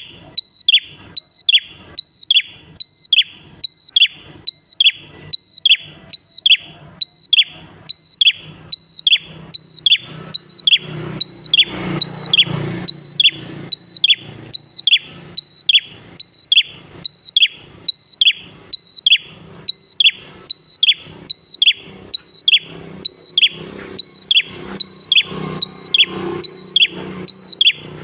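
Prenjak (a prinia) calling a steady, fast series of short, sharp high notes, about two a second, each dropping in pitch. A low background rumble swells about halfway through.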